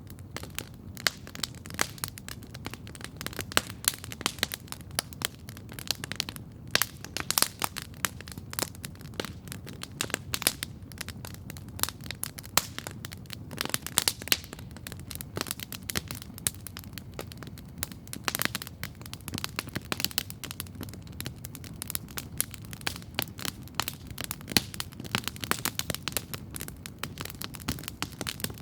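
Wood campfire crackling steadily, with dense, irregular sharp pops and snaps over a low, steady rumble.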